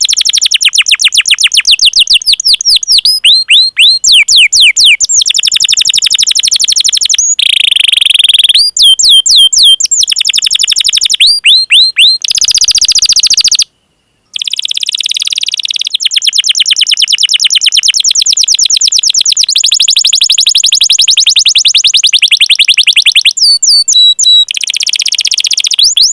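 Domestic canary singing: long rolling trills of fast, repeated downward-sweeping chirps, changing phrase every second or two. There is a brief break about 14 seconds in.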